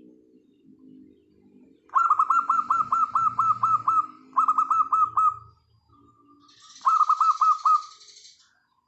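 Zebra dove (perkutut) song: three bursts of rapid, closely repeated notes, the first lasting about two seconds, with soft low cooing before and between them.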